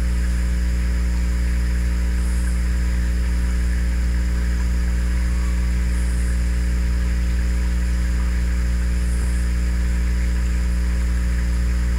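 A steady, unbroken low mechanical hum, like an engine running at a constant speed.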